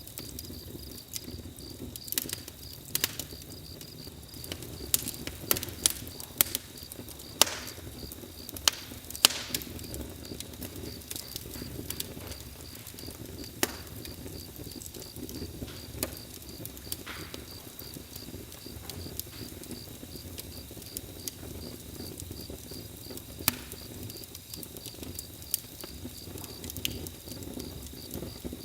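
Wood fire crackling, with irregular sharp snaps and pops over a low steady rumble of the burning fire. Behind it runs a steady high-pitched pulsing chirp.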